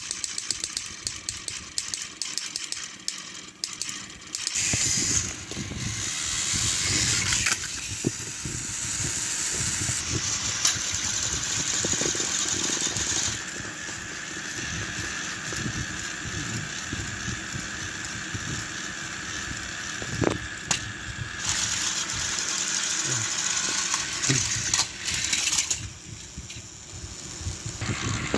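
Battery-powered Thomas & Friends toy train engines running, their small motors and gears whirring and their wheels rattling on the track. A rapid clicking for the first few seconds gives way to a steady whir, with a higher whine through the middle.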